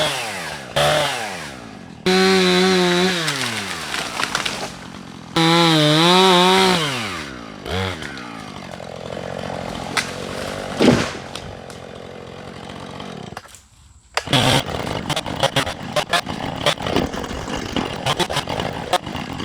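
Chainsaw revving hard in several bursts and dropping back to idle between them while cutting brush. There is a sharp knock about 11 seconds in. After a brief quiet gap about 14 seconds in, a dense run of crackling and clicking follows.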